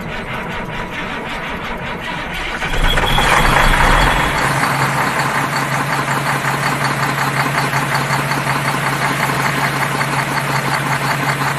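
Truck engine running; about three seconds in it surges louder with a deeper rumble, then settles into a steady, even idle.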